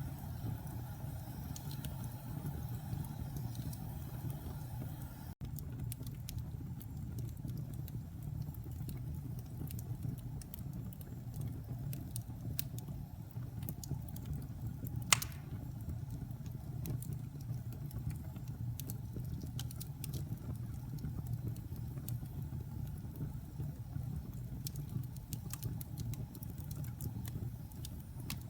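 Wood fire burning in a fireplace: a steady low rumble with scattered faint crackles and one sharp pop about halfway through.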